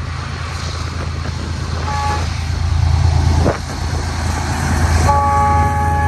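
Diesel freight locomotives working upgrade with a steady low rumble, and a multi-chime locomotive air horn sounding a short toot about two seconds in, then a long blast starting near the end.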